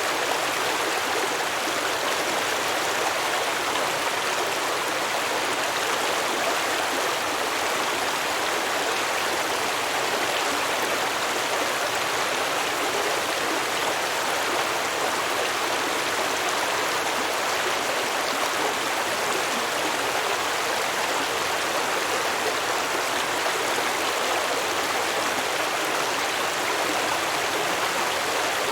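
Stream water flowing and babbling over rocks, a steady, unbroken rush.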